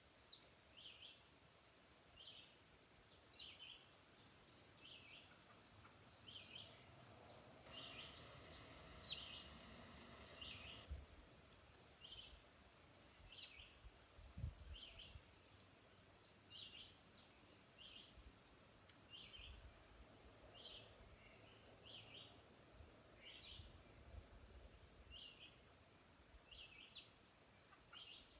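Several birds calling: short, repeated chirps throughout, with one sharp, high call recurring every three or four seconds. A brief hiss of noise rises and stops about eight to eleven seconds in.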